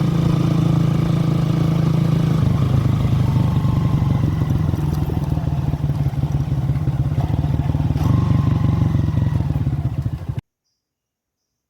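An engine running steadily, shifting slightly in pitch twice, then cutting off abruptly near the end.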